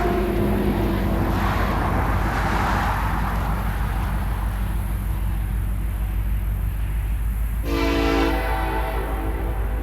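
Diesel freight locomotive horn sounding one short multi-tone blast near the end, over the steady low rumble of the train.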